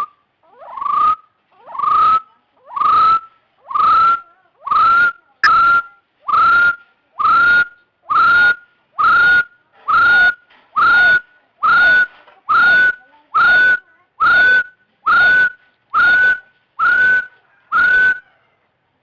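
Hill partridge calling: a long, even series of about twenty loud, rising whistles, a little under one a second, the pitch of each note creeping slightly higher as the series goes on. A single sharp click sounds about five seconds in.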